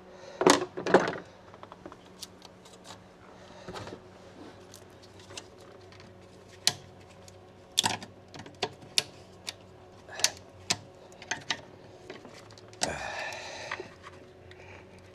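Scattered sharp clicks and knocks of hand tools and plastic parts being handled while connectors and hoses are worked loose in a car's engine bay, with two loud knocks about half a second apart near the start.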